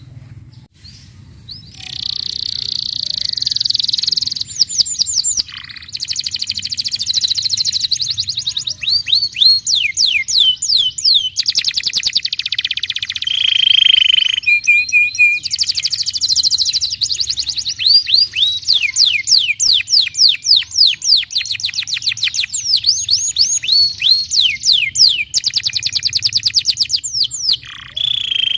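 Domestic canary singing a long, fast song of rolling trills and quick runs of downward-sweeping notes, starting about a second and a half in.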